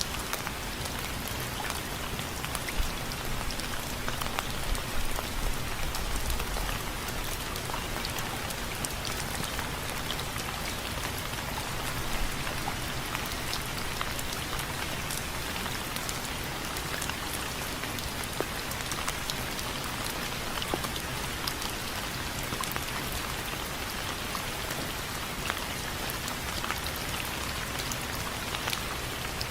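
Steady rain with a dense patter of drops striking a window frame, sharper single drop ticks standing out here and there.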